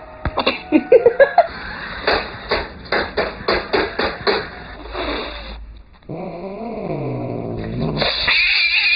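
Cat vocalisations: a few short meow-like calls, then a run of short, evenly spaced sounds about two to three a second, then a long call that dips in pitch and rises again, and a higher wavering call near the end.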